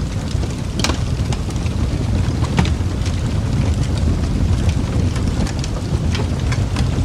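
Wood fire burning in a fireplace: a steady low rumble of flames with scattered sharp crackles and pops, the loudest about a second in.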